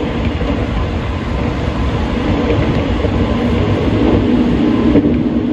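Hanshin electric train running along the line, heard from inside the passenger car: a steady rumble of wheels and running gear on the rails, growing a little louder in the second half.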